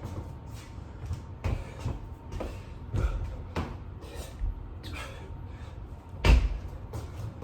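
Thuds of hands and feet landing on the floor during burpees with push-ups, coming every half second or so. One much louder thump about six seconds in.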